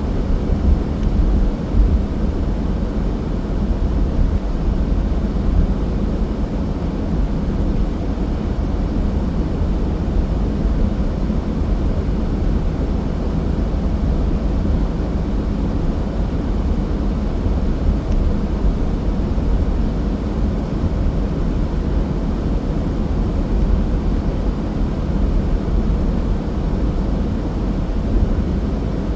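Car driving at a steady speed: an even, low rumble of road and engine noise.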